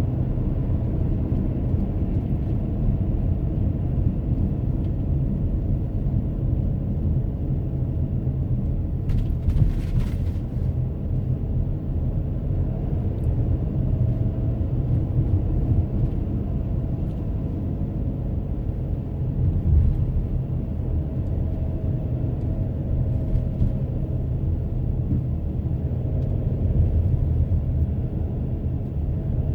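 A car driving on the road: a steady low rumble of tyres and engine. A brief hiss comes about ten seconds in.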